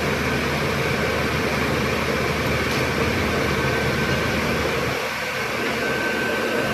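Workshop machinery running steadily, a dense mechanical noise with a constant whine through it.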